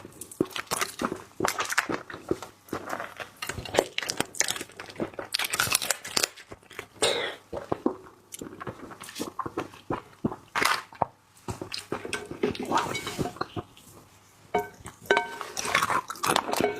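Close-miked eating of crab: shell cracking and crunching in rapid irregular clicks, with chewing.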